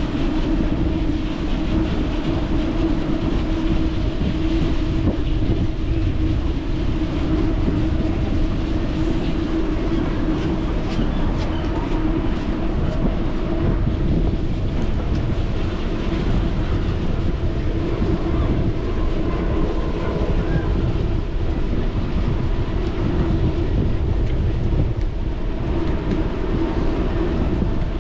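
Steady rolling noise of a bicycle ride: tyre rumble on pavement and wind on the microphone, with a constant low hum underneath.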